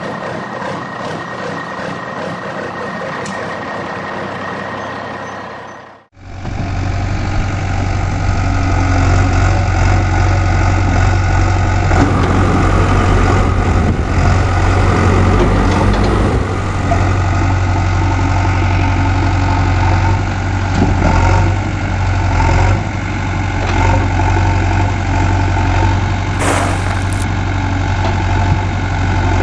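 Heavy vehicle engine running steadily at idle, with a strong low hum. About six seconds in the sound briefly cuts out and comes back louder.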